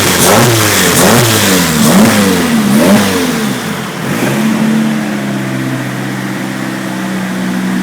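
Turbocharged Renault F4R 2.0 16V four-cylinder engine blipped up and down in quick repeated revs, then settling to a steady idle about four seconds in.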